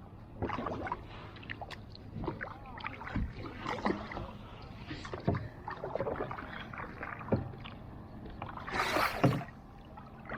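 Kayak paddles dipping and stroking through lake water, with irregular splashes, drips and light knocks. A louder whoosh of noise comes about nine seconds in.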